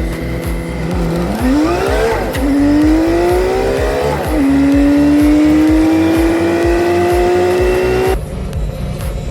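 A car engine revving up through the gears: the pitch climbs, drops at two shifts and climbs again, then cuts off suddenly near the end. Under it runs background music with a steady beat of about four thumps a second.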